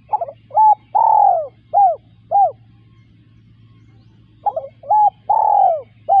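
Spotted dove cooing: two phrases of about five mellow notes each, the third note in each phrase longer and falling, with a pause of about two seconds between the phrases.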